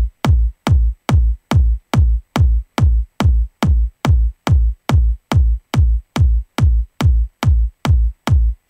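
Electronic trance kick drum playing alone, one hit on every beat at about 140 beats per minute. Each hit is short, with a low pitch that drops quickly.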